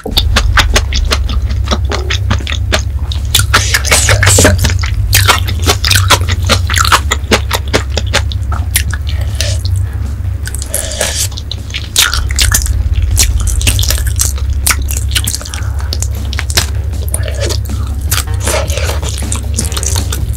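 Close-miked eating of sauced chicken feet: wet, sticky mouth sounds with many sharp crunching clicks as the meat is bitten and chewed off the bones, over a steady low hum.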